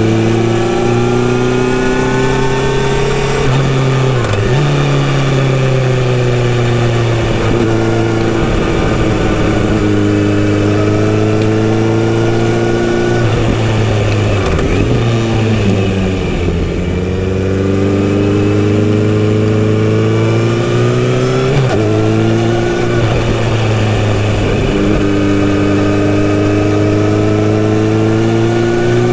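Kawasaki Z900RS inline-four with a full-system exhaust, ridden on the road. The engine note climbs steadily under throttle and drops back several times at gear changes or throttle closures, dipping lowest about two-thirds of the way through before climbing again.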